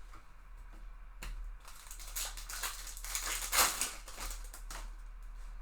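Foil trading-card pack wrapper crinkling and tearing as it is opened, a run of crackling that peaks about three and a half seconds in and dies away near the end.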